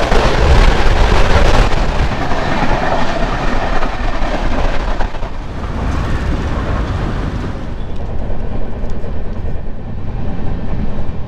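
Train running on the rails: a loud, continuous rumble with rail noise, loudest in the first couple of seconds and easing a little after.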